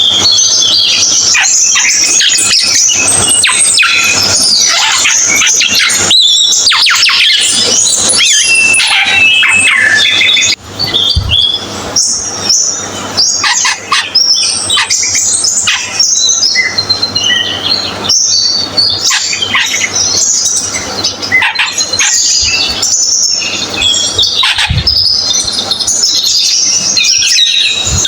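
Cucak keling (Asian glossy starling) singing vigorously: a dense, rapid run of squeaky chirps, whistles and rattling notes with a brief pause about ten seconds in.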